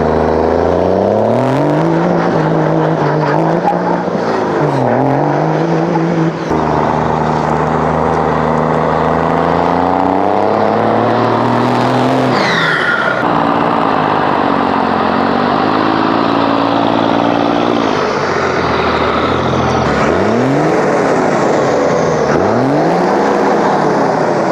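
Dodge 2500's 24-valve Cummins diesel on its stock straight-pipe exhaust, with the truck driving and its engine pitch rising and dropping again and again as it accelerates and shifts through the five-speed manual. A brief falling whistle comes about halfway through.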